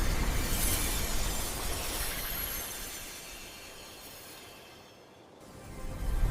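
Dense, even hiss that fades down over about five seconds, nearly dying away, then swells back up near the end.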